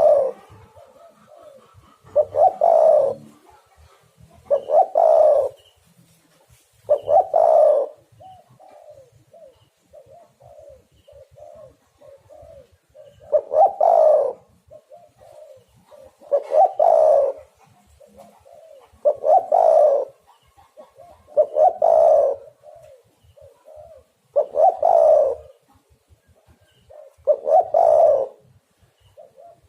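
Spotted dove cooing: a low, repeated coo phrase comes about every two and a half to three seconds, with softer short coo notes between. For a while in the middle only the soft notes are heard.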